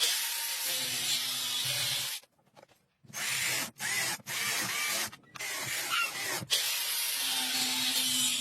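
Hissing, rubbing noise that stops and starts in stretches of one to three seconds, with a few faint squeaks in the middle.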